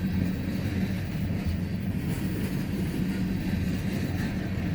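A steady low engine drone over a rumble, holding even with no change in pitch or level.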